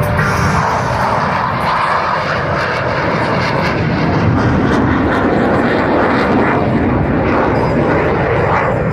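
Jet aircraft engines running loud and steady as the aircraft fly past.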